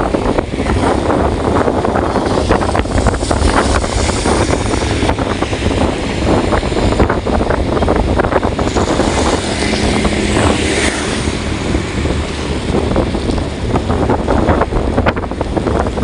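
Wind buffeting the microphone: a loud, continuous, rough rush with a heavy low rumble and constant crackling gusts.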